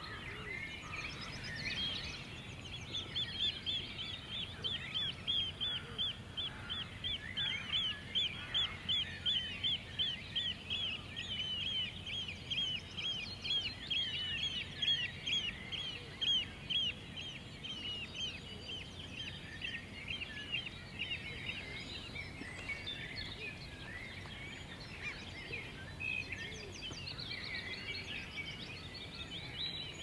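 Wild birds singing, one of them repeating a quick run of short, high notes at about three a second for roughly fifteen seconds. Other birds chirp around it over a faint steady background.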